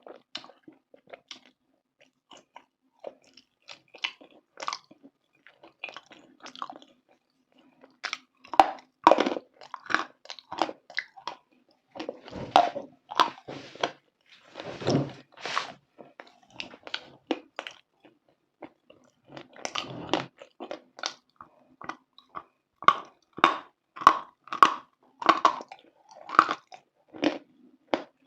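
Close-miked biting and chewing of hard, dry pieces of edible earth (chalk or clay type), giving irregular sharp crunches. The crunches are sparse and light at first and grow dense and loud from about eight seconds in.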